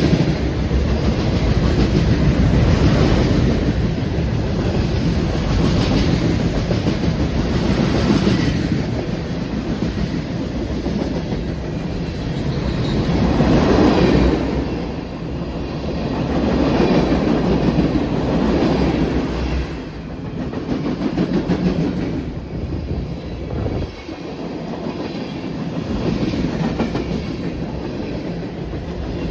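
A train's rail cars rolling past close by, wheels clicking over the rail joints. The rumble swells and eases every couple of seconds as the cars go by.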